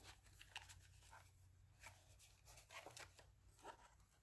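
Near silence with faint, scattered rustles and light ticks of paper pieces being handled.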